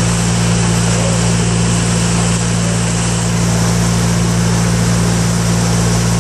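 Passenger launch's engine running at a steady cruise: an even low drone under a constant hiss.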